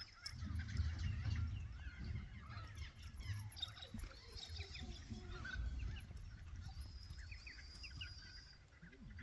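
Many birds calling in short, overlapping honking calls, over a low rumble.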